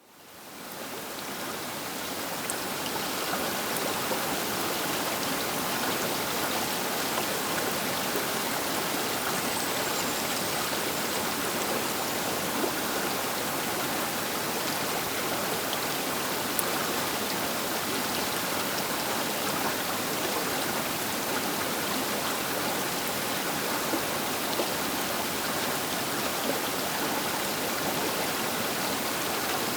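The Baker River rushing past its bank, a steady, dense hiss of flowing water that fades in over the first two seconds.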